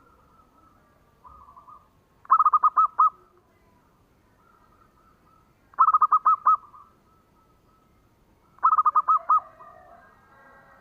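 Zebra dove (perkutut) cooing: three loud phrases a few seconds apart, each a quick run of six or seven short clipped notes, with a fainter short phrase before the first.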